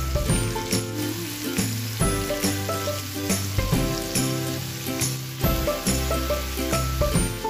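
Background music with a steady beat and bass notes that change every second or two, over oil sizzling in a wok where potatoes and tomatoes are frying.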